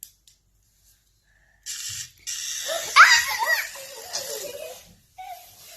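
Children shrieking and laughing, loudest about three seconds in, over a harsh hiss; it begins after a short quiet.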